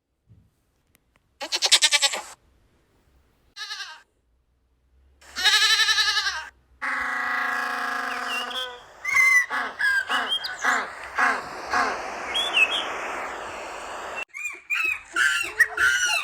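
A string of separate animal calls with short silent gaps between them, including two wavering, bleat-like calls in the first half and a run of short chirping calls in the second half.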